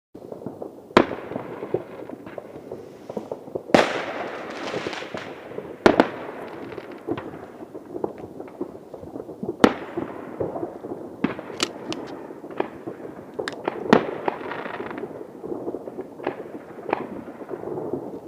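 New Year fireworks going off: loud single bangs every few seconds over continuous crackling and popping.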